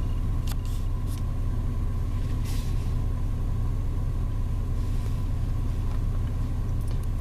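Car engine idling, heard from inside the cabin as a steady low rumble with a faint steady tone above it. A few light clicks in the first seconds.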